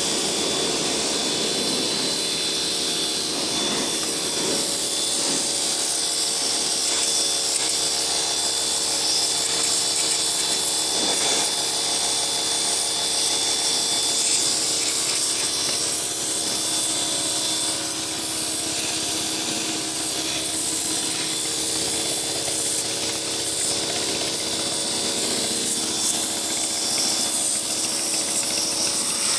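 Atacama Black electric pressure washer running steadily: an even motor hum under the loud hiss of the water jet.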